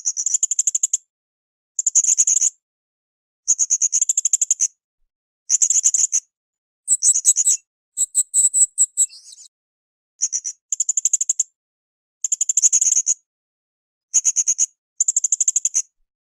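Blue-crowned hanging parrot (srindit) calling: high-pitched, rapidly trilled bursts about a second long, repeated every second and a half to two seconds, with a scratchier, more varied phrase about halfway through.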